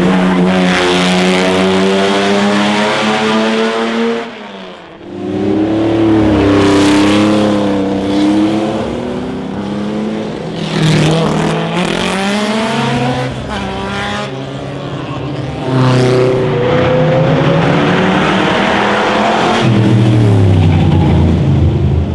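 Classic racing cars accelerating hard up a hillclimb. Their engines rev up through the gears, with sharp drops in pitch at each gear change, as they pass one after another.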